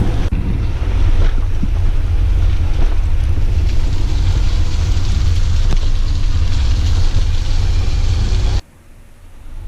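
Wind buffeting the microphone over the rumble of a moving electric tricycle on a rough, flooded road, a loud steady noise that drops off sharply near the end.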